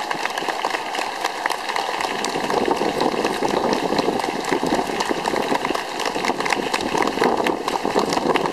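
Strong wind buffeting the microphone: a dense, crackling rush of noise with constant small pops, a little heavier from about two seconds in.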